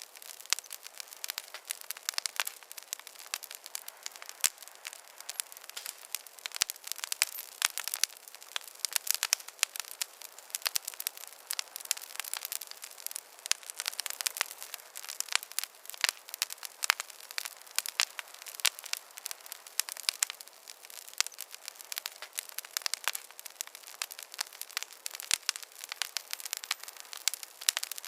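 Wood fire crackling in a fireplace: a steady run of sharp pops and snaps of varying loudness over a soft hiss.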